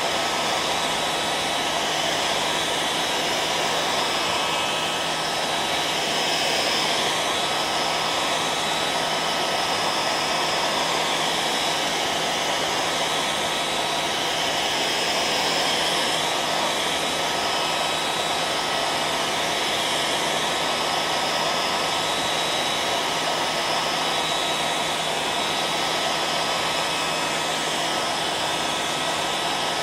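Hair dryer running steadily: a continuous rush of air with a constant motor hum and a thin whine, unchanging throughout.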